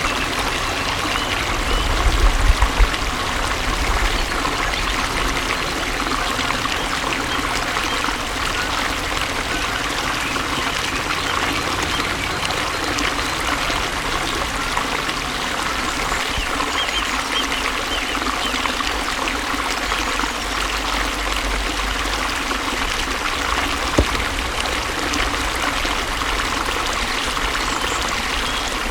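Flowing water trickling and pouring steadily, like a small stream. A few low bumps come about two to three seconds in, and a single sharp click comes near the end.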